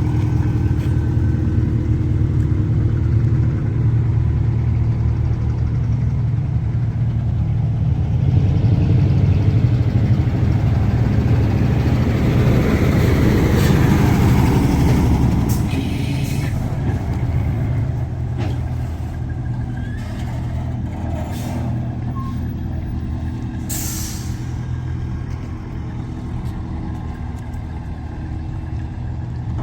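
Diesel engine of a rice combine harvester running steadily, swelling louder with a rising whoosh for several seconds near the middle, then settling back. A short sharp hiss comes about three-quarters of the way through.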